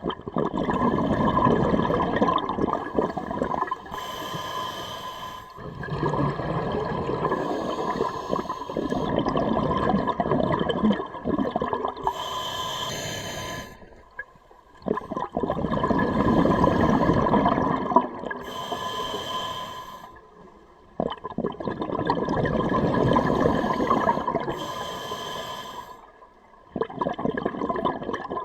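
Scuba diver breathing through a regulator underwater: long bubbling exhalations alternating with short hissing inhalations, about one breath every six seconds.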